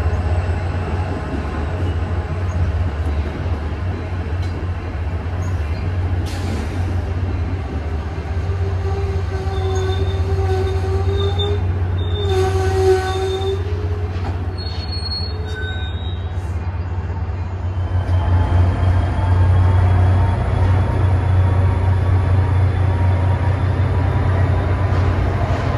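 Train running by with a steady low rumble. From about nine seconds in, a pitched squeal rises over it for several seconds and then fades, typical of wheels squealing on the rail.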